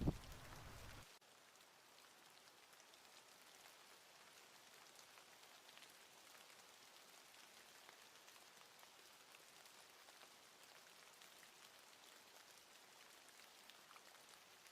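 Faint, even patter of falling precipitation, rain or wet snow, with scattered small ticks of drops. In the first second a low rumble with a couple of knocks cuts off abruptly.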